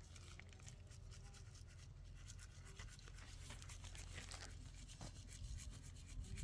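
Faint scratching and rubbing: a quick, irregular run of small ticks and scrapes over a steady low hum.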